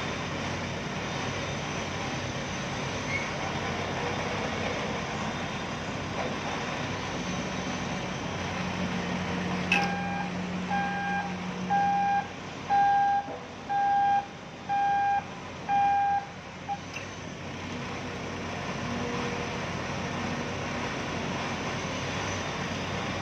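A vehicle engine running steadily. About ten seconds in there is a sharp knock, and then a reversing alarm beeps seven times, about once a second.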